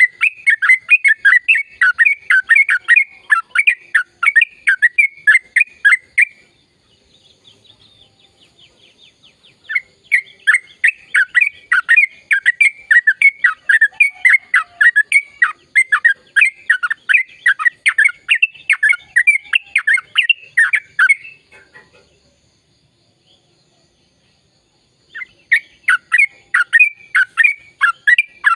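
Sooty-headed bulbul (trucukan) singing long, rapid runs of chattering, sliding notes. It sings three bouts, with pauses of a few seconds between them.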